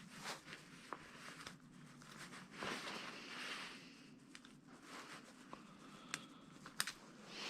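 Faint handling of scrap parts: rustling with scattered small clicks and taps, the sharpest two close together near the end.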